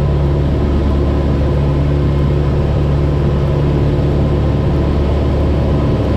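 Cessna 172's single piston engine and propeller droning steadily in flight, heard inside the cabin.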